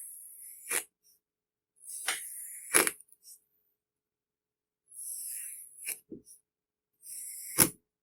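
A blade slicing through kinetic sand: a short, gritty crunching hiss that ends in a sharp tap as the blade meets the surface beneath. This happens four times, about every two seconds.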